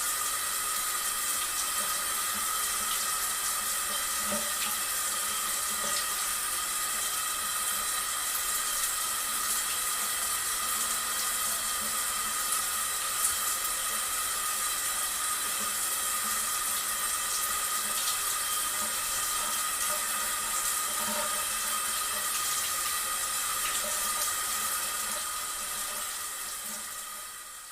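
Steady running water, an even rushing flow that fades out at the end.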